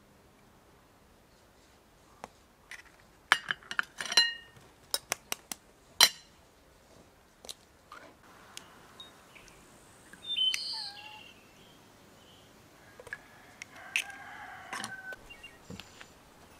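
A quick run of sharp clinks and taps, some ringing briefly, like utensils against a bowl or pot, the loudest about six seconds in. After that, birds chirp and call.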